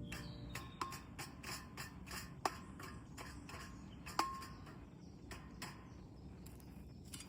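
Wood campfire crackling: a steady run of irregular small pops, with three sharper cracks that ring briefly, about a second, two and a half and four seconds in.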